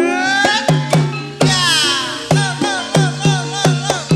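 Banyumasan gamelan music (gending ebeg) playing, with a steady pulse of kendang hand-drum strokes that bend in pitch over sustained gamelan tones.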